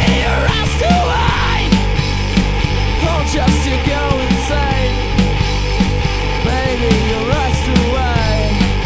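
Live hard/stoner rock band playing: heavy distorted guitars and bass over a steady drum beat, with a lead line sliding and bending in pitch above.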